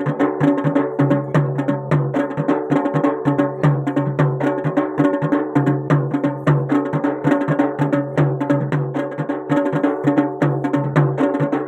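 Garhwali jagar folk music: fast, continuous drumming over a steady pitched drone.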